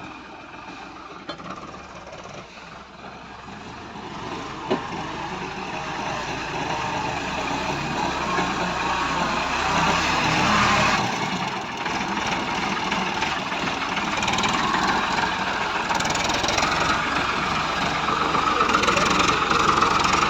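A heavy vehicle's engine running, growing louder over the first half and then staying loud, with one sharp click about five seconds in.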